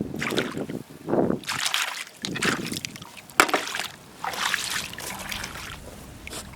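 Digging in wet sand and shallow seawater to get at buried clams: a run of separate sloshing, trickling scoops, the sharpest about three and a half seconds in, fading near the end.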